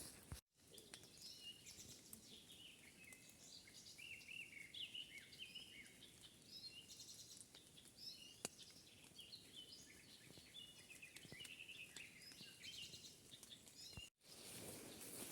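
Small songbirds singing faintly: a busy run of short chirps and trills over light outdoor hiss. A single sharp click comes about eight and a half seconds in.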